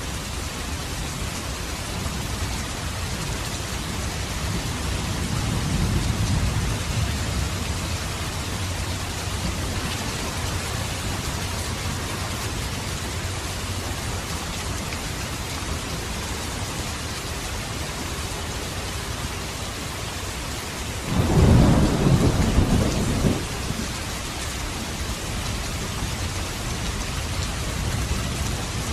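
Steady rain with thunder: a low rumble swells about six seconds in, and a louder, sudden clap of thunder breaks about twenty-one seconds in and rolls for around two seconds.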